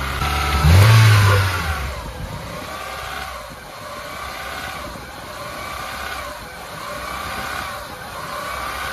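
Honda Accord's four-cylinder VTEC engine idling unevenly. The revs surge about a second in, then rise and fall every couple of seconds: the up-and-down idle of a stuck idle air control valve.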